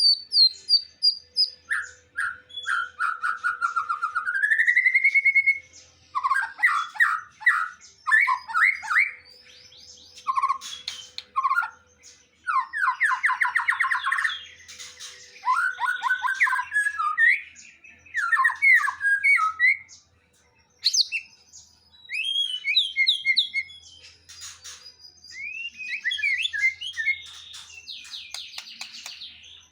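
A songbird singing a long, varied song of sliding whistles and fast trills, phrase after phrase, with short pauses between bursts.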